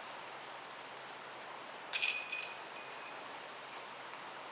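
A golf disc striking the chains of a disc golf basket about two seconds in: a sharp metallic jingle that rings and fades over about a second, the sound of a made short putt.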